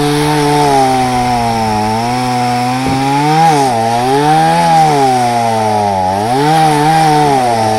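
Chainsaw engine running under load while cutting through a log, its pitch dipping and recovering a few times as the chain bites into the wood.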